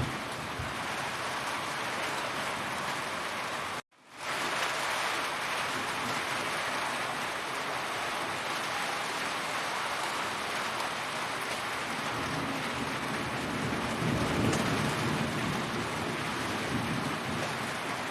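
Heavy rain falling steadily in a dense hiss of drops. About four seconds in, the sound cuts out for a moment and fades back in. A low rumble swells briefly about three-quarters of the way through.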